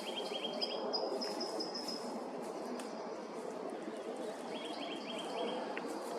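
Small songbirds giving trills of quick repeated high notes: one run near the start, a higher one running into the second second, and another about five seconds in, over steady background noise. No woodpecker drumming is heard.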